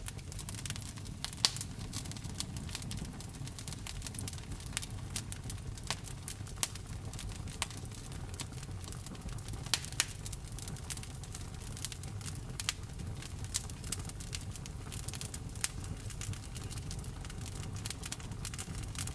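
Wood fire burning, the logs crackling and popping at irregular intervals over a low steady rumble of the flames, with a few louder snaps.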